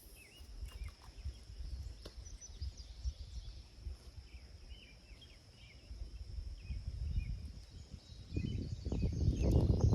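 Creekside ambience: small birds chirping again and again over a steady high insect drone, with a low rumbling noise underneath. The rumble swells into a louder rush about eight and a half seconds in.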